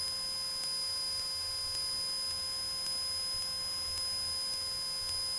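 Steady electrical hum with a high, even whine in a Cessna 172's cockpit audio, holding one pitch throughout, with a faint low rumble underneath.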